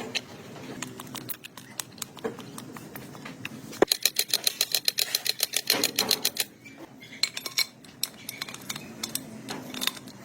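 Metal tools and parts clinking and tapping during hand work on a motorcycle, with a quick run of sharp, ringing metallic clicks, about ten a second, from about four to six and a half seconds in.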